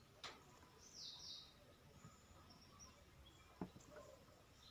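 Near silence, with faint outdoor bird chirps about a second in and a faint click or two.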